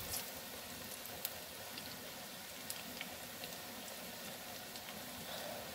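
Cauliflower fritters shallow-frying in hot oil in a frying pan: a steady sizzle with scattered small pops and crackles.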